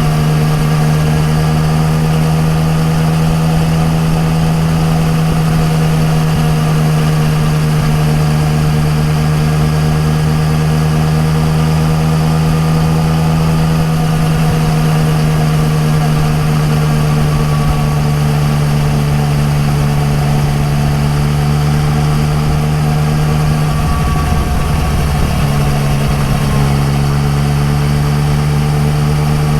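Yamaha MT-09 Tracer's three-cylinder engine through an Akrapovic exhaust, running at a steady cruising speed with an even, unchanging note. Near the end the note wavers briefly, then settles back.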